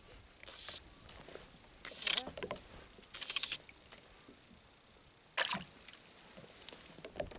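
Four short swishing splashes of water at a kayak, the first three about a second and a half apart and the last after a longer gap.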